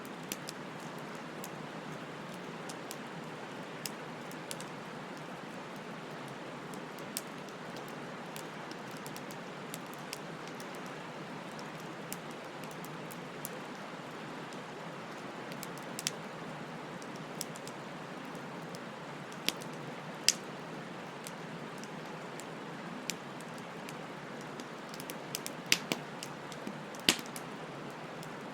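Wood bonfire burning: a steady hiss with scattered sharp crackles and pops, a few louder pops about twenty seconds in and a cluster near the end.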